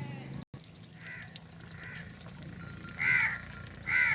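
Crows cawing: four short harsh caws about a second apart, the last two much louder, over a steady low hum.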